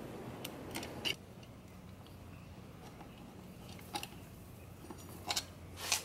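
A few scattered sharp clicks and taps of a hand tool on a bolt of the motorcycle's front wheel as the bolt is loosened, over a faint steady hum.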